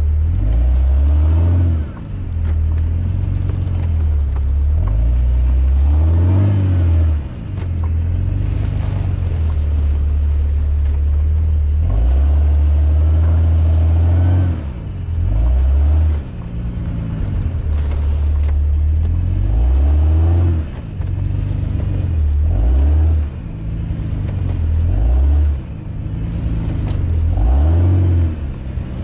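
An off-road 4x4's engine revving up and falling back again and again, about every two to three seconds, over a heavy low rumble, as it works through deep snow.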